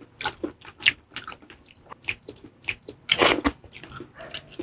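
Close-miked eating of a salmon head: wet chewing, smacking and sucking with irregular small crunches, and a louder crunchy burst a little over three seconds in.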